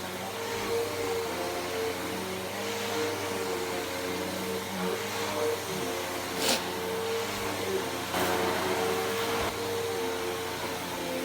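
Bissell PowerForce Helix Turbo upright vacuum cleaner running steadily, its motor giving a constant whine over the rush of air, with one sharp click about six and a half seconds in.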